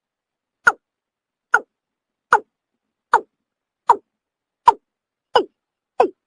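A male watercock (kora) repeating its call: a string of short, hollow notes about every 0.8 seconds, each one dropping in pitch.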